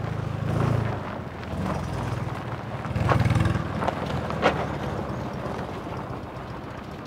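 A classic Fiat 500's small air-cooled two-cylinder engine running as the car drives by on a gravel track, loudest about three seconds in, with a few sharp clicks. The sound fades slightly toward the end.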